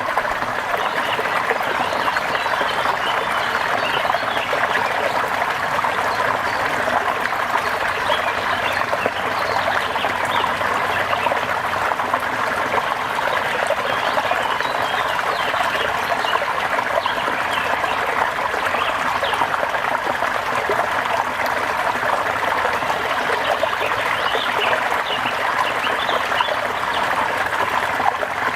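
Steady rain with trickling water, an even hiss that holds level.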